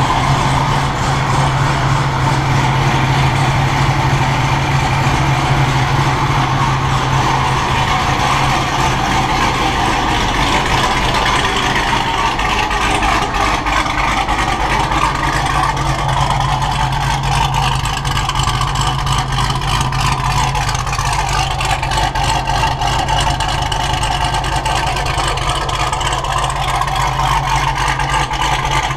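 2009 Cadillac CTS-V's supercharged 6.2-litre LSA V8 idling steadily, fitted with a big aftermarket cam and a Corsa Sport exhaust and running just after its first start since the install.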